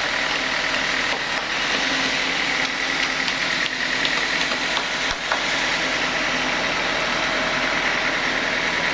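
Sawmill saw machinery running steadily, a constant mechanical drone with a steady high whine over it, and a single small knock about five seconds in.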